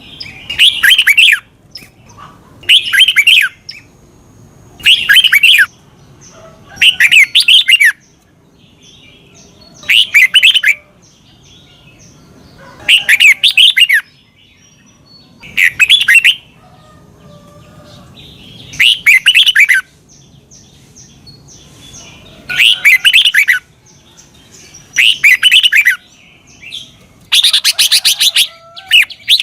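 Red-whiskered bulbul singing its short, fast-warbling song phrase over and over, about one phrase every two to three seconds with brief pauses between. The last phrase, near the end, is longer.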